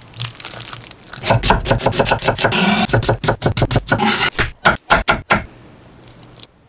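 Kitchen food-preparation sounds: a rapid run of clicks and scrapes, thinning to a few separate clicks after about four seconds.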